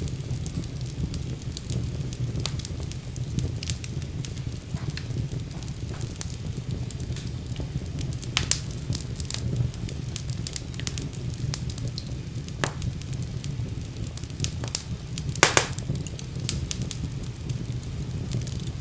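Wood fire burning in a fireplace: a steady low rumble of flames with frequent small crackles and a few louder pops, the loudest about two-thirds of the way through.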